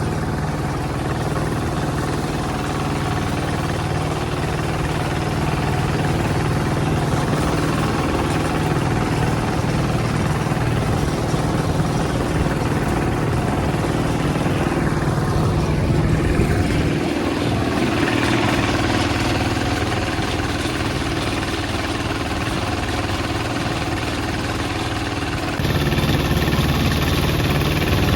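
Hand tractor engine running steadily. Its tone shifts about two-thirds of the way through, and the sound changes abruptly near the end.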